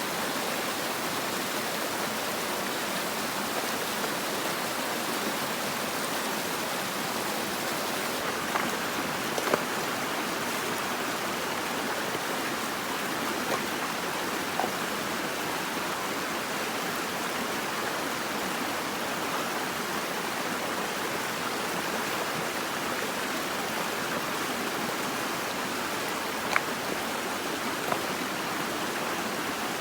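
Steady rushing water noise, even throughout, with a few faint clicks and knocks scattered over it.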